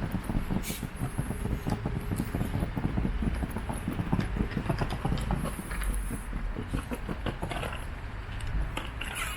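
Rapid, uneven clatter and thudding of walking on a city pavement, picked up close to the microphone.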